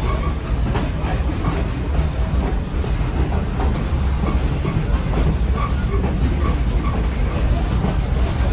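Passenger train car rolling along the track: a steady low rumble from the wheels on the rails, with irregular clicks and knocks.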